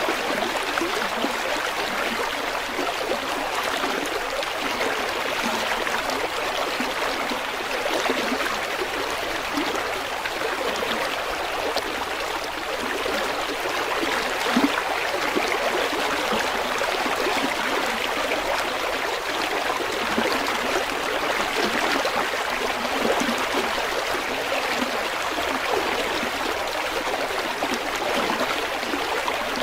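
River water flowing and babbling over rocks, a steady rushing with small splashes and gurgles.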